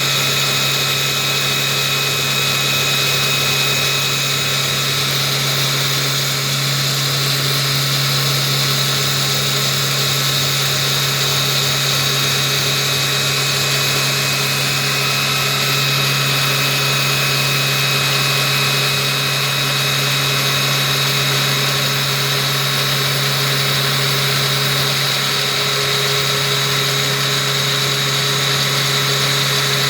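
Combimill milling machine under LinuxCNC control, running a 10 mm four-flute endmill through SS 2225 steel: a steady low hum with a steady high whine over it.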